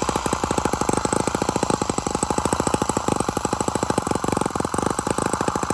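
Small model engine running fast with a rapid, even beat of firing strokes.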